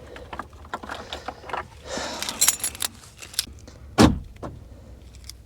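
Keys jangling with small clicks and rattles while a truck camper is locked up, then one heavy thump about four seconds in.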